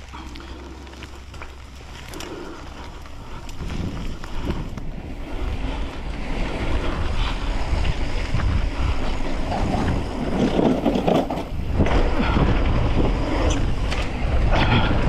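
Wind rushing over the microphone and tyres rumbling on a dirt trail as a mountain bike rolls downhill, growing louder as it picks up speed, with scattered rattles and clicks from the bike.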